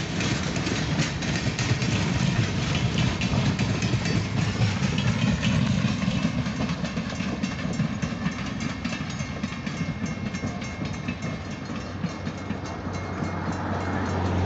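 Passenger train cars rolling past at a steady speed, their steel wheels clicking over the rail joints in a continuous clickety-clack over a low rumble.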